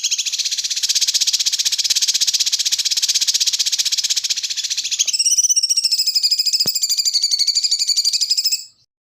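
Rapid, high-pitched pulsing trill from a masteran bird-training track, the material played to train magpie-robins. About five seconds in it changes to a wavering, warbling trill, which stops shortly before the end.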